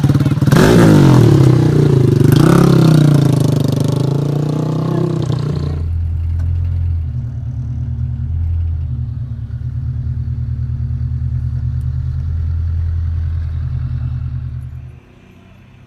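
Racing ATV engine revving hard for about six seconds, its pitch sweeping up and down. It then settles into a steadier, lower engine note, which cuts off sharply near the end.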